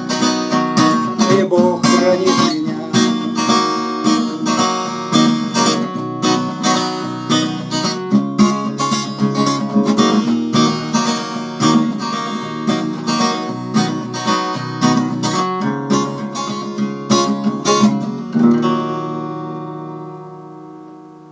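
Acoustic guitar strumming the closing bars of a song, then a final chord about three-quarters of the way through, left to ring and fade away.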